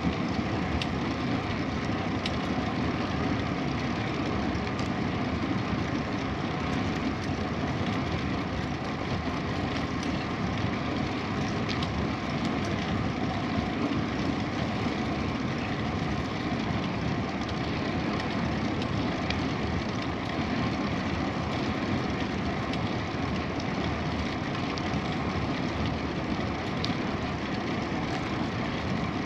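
Steady rolling noise of a bicycle ride: tyres running on the road and air rushing past the microphone, with a few faint ticks.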